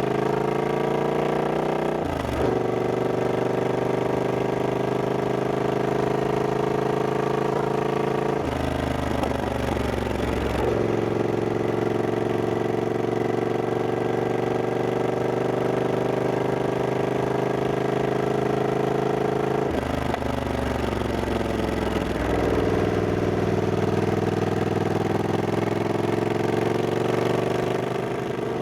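Triumph Scrambler 1200X's 1200 cc parallel-twin engine running under way, its pitch climbing slowly and steadily. The pitch is broken by changes about two seconds in, around nine to ten seconds, and about twenty seconds in.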